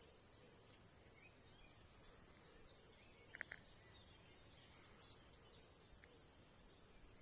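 Near silence: faint outdoor ambience, with a short double chirp about three and a half seconds in.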